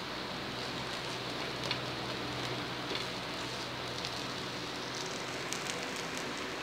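Ghee sizzling steadily under a wheat-flour pancake frying in a non-stick pan, with a few faint crackles.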